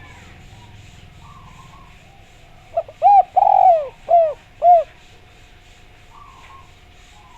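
Spotted dove (derkuku) cooing: a short lead note, then four loud arched coos over about two seconds, midway through. A faint steady hum and a few faint chirps from other birds lie under it.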